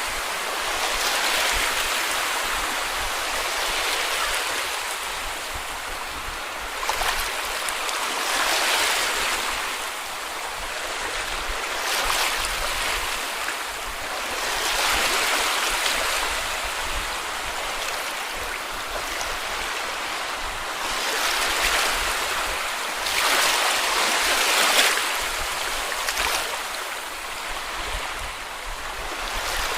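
Small sea waves washing up on a beach, the surf swelling and easing every few seconds.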